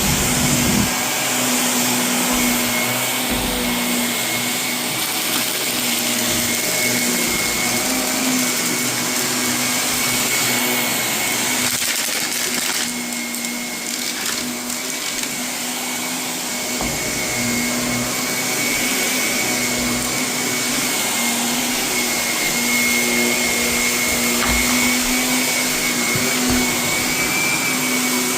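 Vacuum cleaner running steadily over carpet strewn with renovation debris, a level motor hum and high whine over the rush of suction. It goes a little quieter and duller for a few seconds around the middle.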